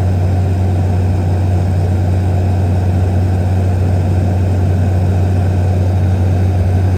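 Small propeller plane's engine droning steadily with a strong low hum, unchanging throughout.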